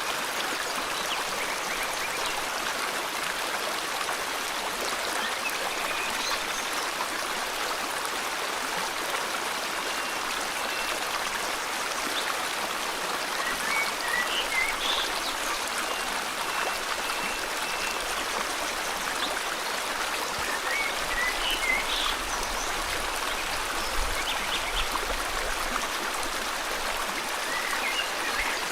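River water flowing in a steady rush, with scattered faint bird chirps and a thin held whistle over it.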